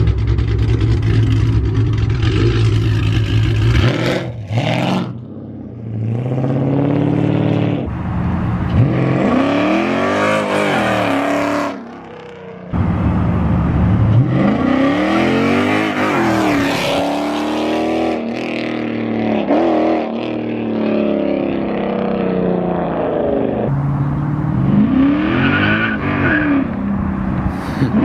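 Straight-piped 2006 Chrysler 300 SRT8's 6.1 Hemi V8 exhaust, first a steady drone, then loud repeated accelerations heard from outside the car, the engine note climbing and falling in pitch several times.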